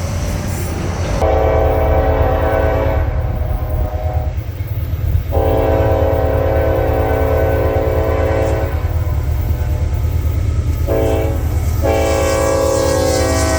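Locomotive air horn sounding the grade-crossing signal, long, long, short, long, each blast a chord of several notes, over the steady low rumble of the passing train. The pitch sags slightly during the last long blast.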